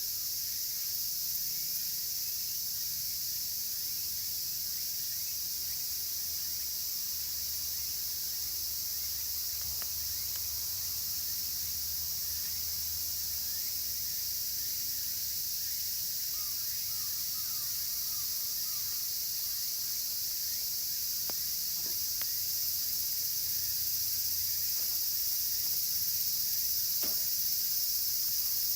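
Dense chorus of cicadas, a steady high-pitched hiss, with a wood campfire crackling and giving a few sharp pops.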